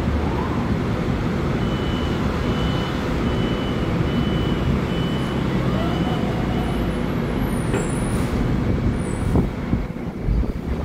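LIRR M7 electric train standing at the platform, giving a steady loud rumble and hum. From about two seconds in, a high beep repeats about twice a second for some five seconds, and there are a couple of short knocks near the end.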